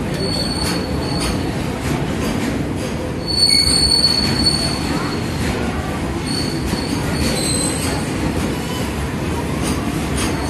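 Freight wagons of a long goods train rolling slowly past: a steady rumble of steel wheels on rail, with thin high wheel squeals that are loudest a few seconds in and return briefly later, and a few faint clicks.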